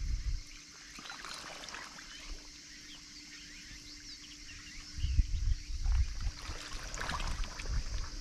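Small waves lapping gently on a flat-calm sea, with scattered trickling and a few low rumbles from about five seconds in, over a steady high hiss.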